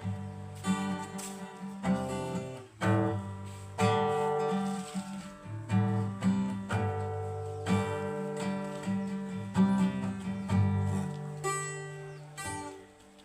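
Acoustic guitar strumming slow chords, each strum ringing out, with the playing tailing off near the end.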